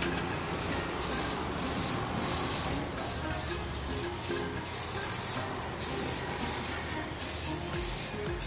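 Aerosol spray-paint can being sprayed in a series of short bursts, a dozen or so, each under a second, as the fabricated swingarm is painted.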